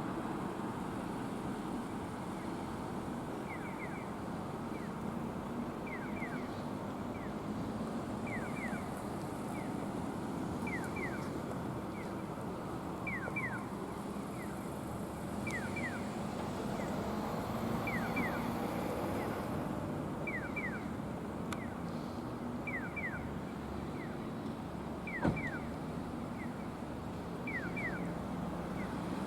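Steady low rumble of a train standing at a station platform. Short high falling chirps sound in twos and threes about every two seconds, and there is a single sharp click near the end.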